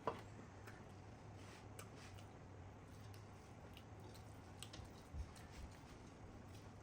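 Faint eating sounds of a person eating rice and curry: scattered soft clicks and mouth noises, a sharper click just after the start and a low thud about five seconds in. A steady low hum lies under them.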